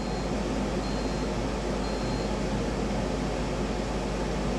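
Air fryer beeping three short high beeps about a second apart over the steady running of its fan.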